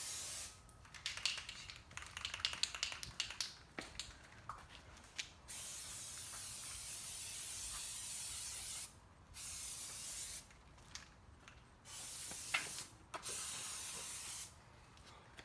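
Aerosol spray paint can spraying onto a car in hissing bursts: a short one at the start, then four more, the longest about three seconds. A patch of quick clicks and rattles comes before the long bursts.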